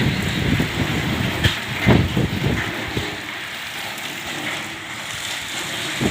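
Wind buffeting the microphone with an even hiss behind it, and two short knocks about one and a half and two seconds in. The low rumble eases after about three seconds.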